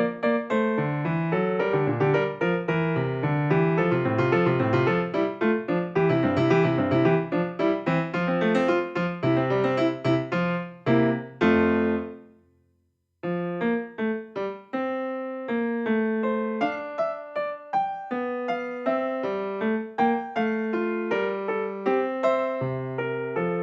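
Background piano music, a lively run of notes that breaks off for about a second near the middle and then starts again.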